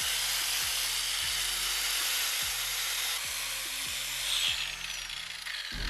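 A power tool grinding old body filler off a car's front lip spoiler, running steadily and stopping near the end.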